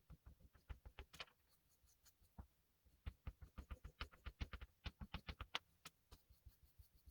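Faint, quick short strokes of an oil pastel stick on paper. A few come at first, then a dense run of them from about three seconds in.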